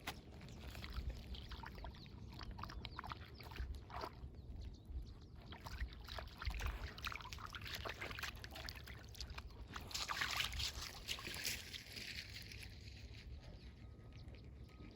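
Lake water lapping at the shore in irregular small splashes and sloshes, growing louder and busier about ten seconds in, over a low rumble of wind.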